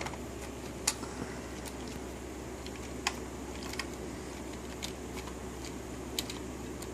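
Scattered light clicks and taps of Lego plastic parts being handled, about five sharp clicks spread unevenly, over a steady low hum.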